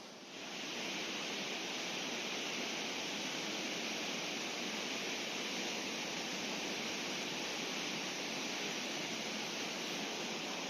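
Rushing river water: a steady, even rush that comes in sharply about half a second in.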